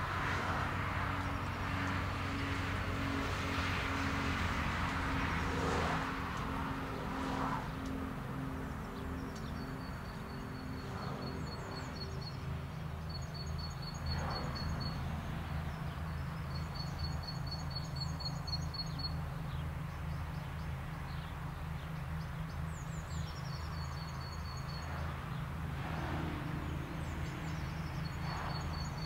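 A steady low drone of distant rail traffic, with a set of steady tones from a receding train fading out over the first eight seconds. From about nine seconds in, a small songbird sings short bursts of high, rapid trills again and again.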